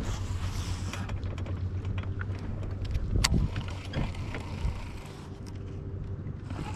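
Low wind rumble on the microphone, with a few short clicks and knocks about three and four seconds in.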